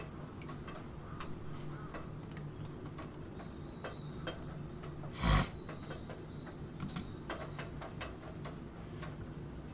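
Computer keyboard typing: irregular light key clicks over steady rain, with one much louder knock about five seconds in.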